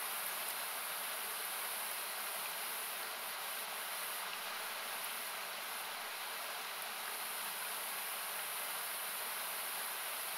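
Rushing river water making a steady hiss, its low rumble cut away by equalisation, with now and then a faint crackle from a wood campfire.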